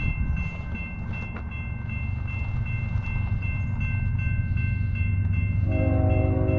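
Freight train locomotives rumbling as they approach, growing a little louder. About five and a half seconds in, the locomotive's multi-note air horn starts to sound.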